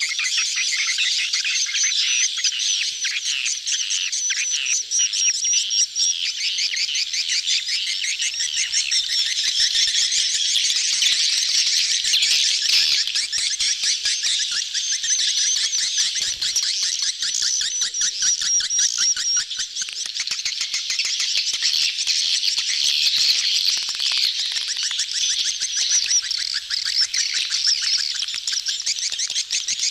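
A dense crowd of swiftlets chirping and twittering nonstop, many high calls overlapping: the courtship chatter of a swiftlet colony, of the kind played as a lure call to draw swiftlets to a nest house.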